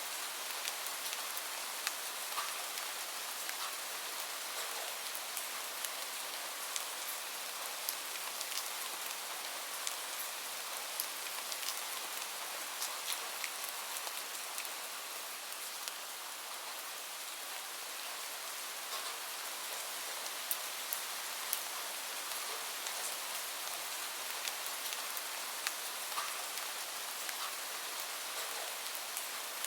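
Steady rain falling, an even hiss dotted with many small sharp ticks and pops.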